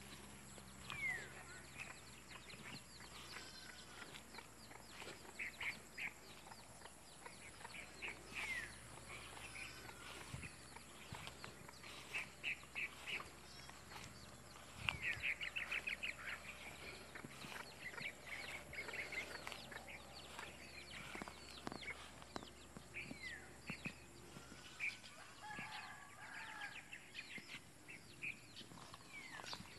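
Birds calling: repeated short chirps and trills, a few falling whistles, and a quicker run of calls about fifteen seconds in.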